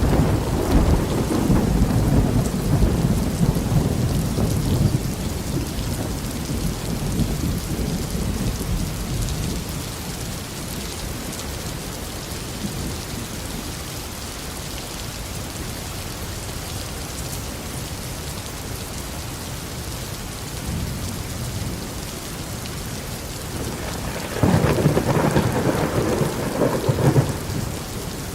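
Steady tropical rain with thunder. A roll of thunder fades over the first several seconds, and near the end a second thunderclap starts suddenly and rumbles for about three seconds.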